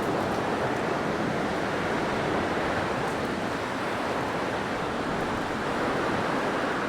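Steady blizzard wind: an even rushing noise with no gusts or breaks.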